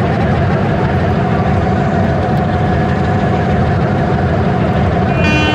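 Train running with a steady heavy engine rumble; near the end its horn starts sounding, a held multi-tone note.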